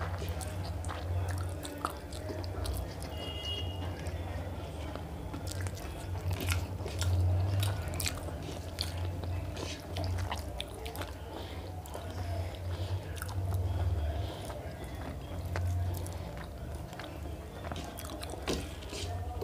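Two people chewing and biting into fried rice and chicken curry eaten by hand: wet mouth sounds and frequent small clicks, over a low rumble.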